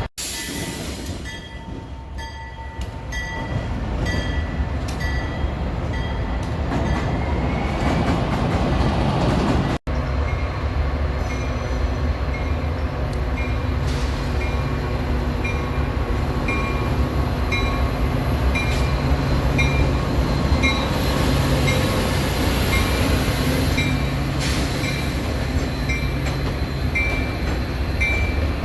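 Train running past: a steady low rumble of engines and rolling cars. From about ten seconds in, a high ding repeats evenly, about every two thirds of a second, over the rumble.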